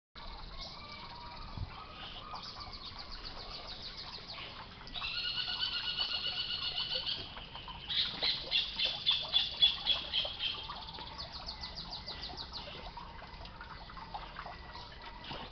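Birds calling outdoors: rapid high chirps repeating throughout, a held steady-pitched call about five seconds in, and a louder run of quick notes, about four a second, from about eight to ten seconds in.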